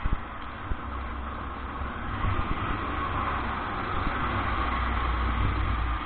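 A vehicle's engine rumble under a steady hiss of rain and wet road, growing a little louder about two seconds in as it picks up speed.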